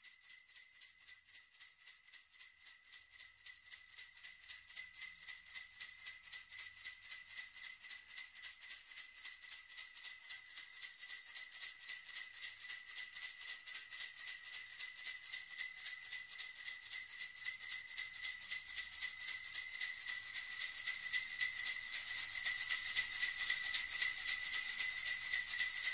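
Sleigh bells shaken in a steady rhythm, about three shakes a second, jingling high and bright and growing gradually louder.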